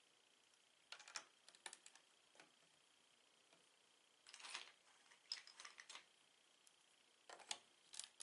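Lego pieces being handled and pressed together: quick clusters of small plastic clicks and rattles, coming in three bursts, about a second in, around four and a half seconds in, and near the end.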